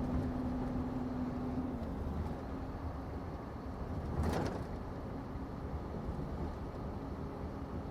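Scania truck's diesel engine running steadily while driving, with a low rumble, and a brief hiss about four seconds in.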